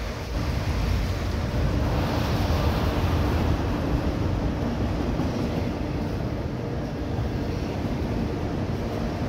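Autorack freight cars rolling past: a steady noise of steel wheels running on the rails, strongest in the low end, with a faint steady hum on top.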